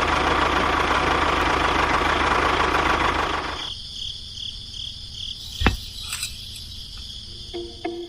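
The small motor of a DIY mini tractor runs steadily, then cuts off suddenly about three and a half seconds in. After it stops, a faint high chirp repeats a few times a second and there is one sharp click.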